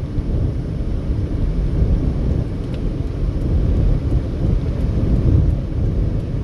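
Car driving at highway speed: a steady low rumble of tyres on the road and the running engine.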